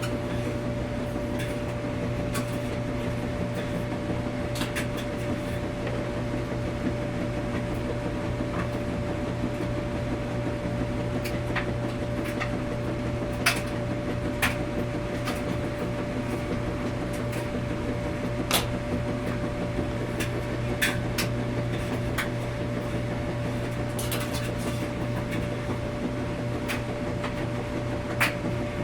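Washing machine running in a laundromat: a steady hum with a constant low tone and a fainter higher whine. Short sharp clicks and knocks come now and then, about half a dozen times.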